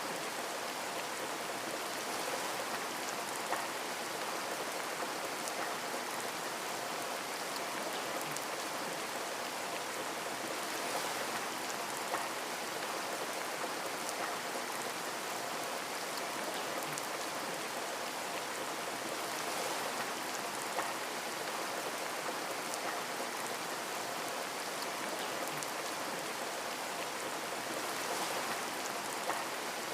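Steady rain pattering on a window, a dense even hiss of rainfall with scattered sharper drop ticks and a few slightly louder drops.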